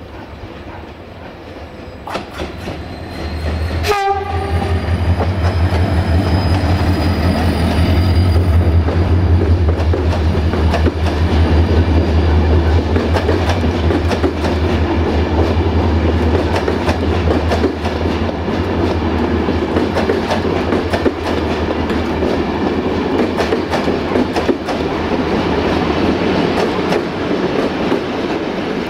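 Diesel locomotive hauling passenger coaches passes close by with its engine drumming low. It sounds its horn about four seconds in, held for several seconds, and then the coaches clatter over the rail joints as they roll past.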